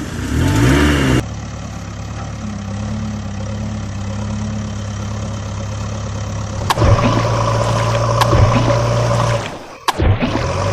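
Engine running steadily at idle, its pitch and level changing abruptly a few times as engine sounds are cut together.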